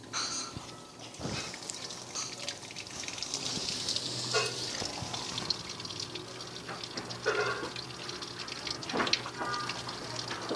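Maytag washing machine with water rushing into the tub and sloshing, a steady hiss.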